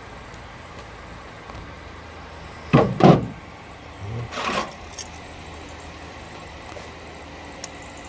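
Small metal parts and hand tools handled on a workbench while a C-clip is fitted onto a mechanical timing advance: two sharp clacks about three seconds in, then a short scraping rustle and a click, over a steady background hum.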